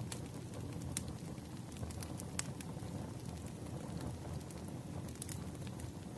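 Wood fire crackling: a steady low hiss of burning logs with scattered sharp pops and snaps, the loudest about a second in and about two and a half seconds in.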